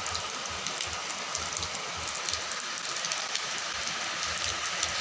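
Steady rain falling: a constant hiss with the sharp ticks of individual drops striking nearby surfaces.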